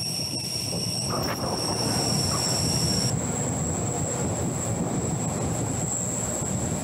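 Rhaetian Railway train on the Arosa line running along the track: a steady rumble of wheels on rails, with thin high whines above it, one of which stops about three seconds in.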